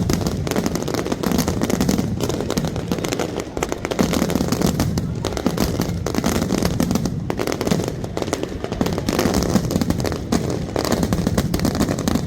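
Fireworks display going off in a dense, continuous barrage: rapid crackling and popping over a low rumble of bursts.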